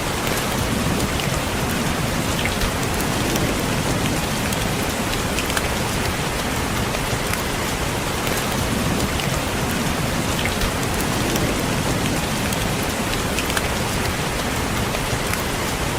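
Steady rain with individual raindrops tapping on window glass, a constant hiss with scattered sharp drop ticks over it.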